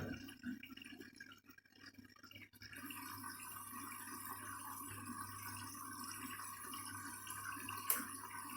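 Candy washing machine heard faintly at rest between stages: a low steady hum with water trickling and dripping inside the drum, settling into a steady faint level after about three seconds.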